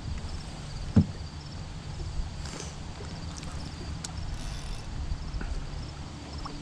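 A low steady rumble with a single thump about a second in, and faint high chirps now and then.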